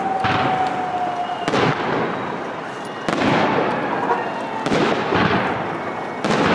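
Large aerial fireworks shells bursting, five loud bangs about a second and a half apart, each trailing off in a long echoing tail.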